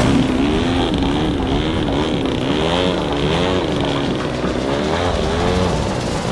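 Large radio-controlled model airplane's engine in flight, its pitch rising and falling again and again as it passes and changes throttle.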